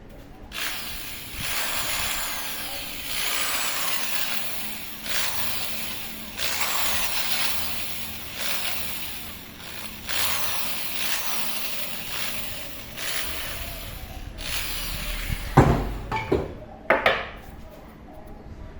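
Repeated long abrasive strokes, about one every one and a half to two seconds, as pressure-cooker parts are scrubbed or rasped by hand. A few sharp knocks follow near the end.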